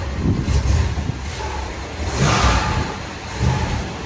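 A car engine running, with a louder rev about two seconds in.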